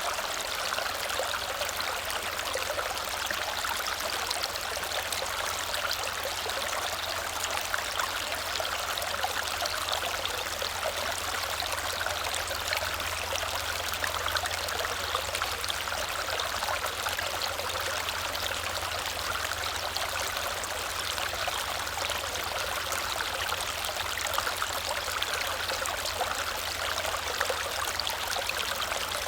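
Small waterfall splashing and running steadily, an even rushing hiss of falling water with fine splatter.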